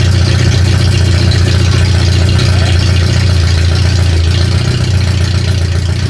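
Suzuki Sierra's 1.3-litre four-cylinder engine running steadily just after starting, freshly swapped in, with the air cleaner top off the carburettor to stop it starving for fuel.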